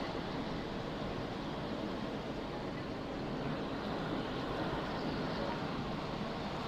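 Heavy rain and strong wind of a summer storm: a steady rushing noise that holds even throughout.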